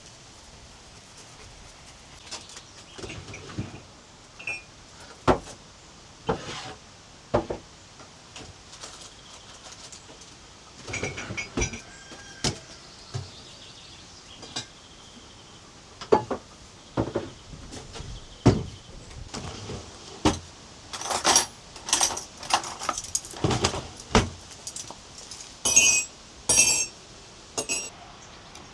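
A run of irregular knocks and clinks of hard objects being handled, like dishes, glass or cutlery. They come thicker and ring brighter in the second half.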